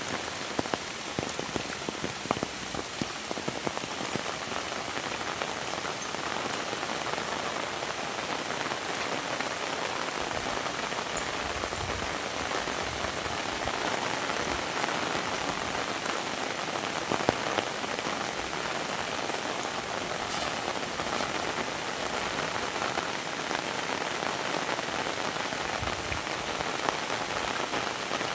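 Heavy rain falling steadily, with scattered close drops tapping sharply and a couple of brief low thumps.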